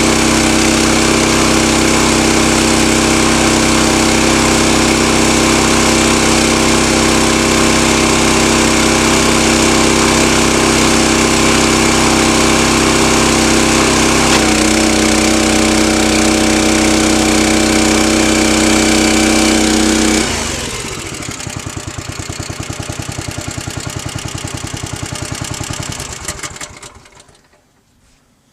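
A small engine runs steadily at speed, its pitch dropping slightly about halfway through. It is then throttled down to a slow, pulsing idle and dies out near the end.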